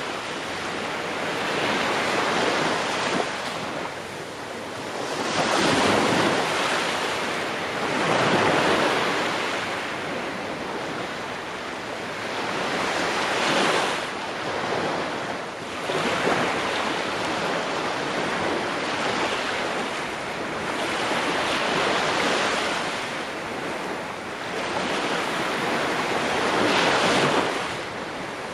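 Ocean waves breaking and washing in on the shore, the surf swelling and easing every few seconds.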